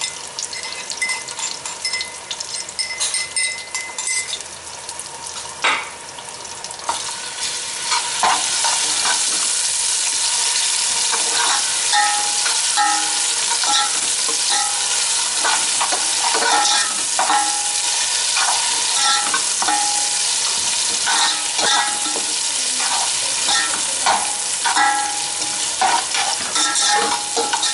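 Ginger-garlic paste sizzling in hot oil with fried onions and whole spices in an aluminium pot, a metal slotted spoon scraping and clinking against the pot as it is stirred. The sizzle grows louder about eight seconds in. The paste is being fried until its raw smell is gone.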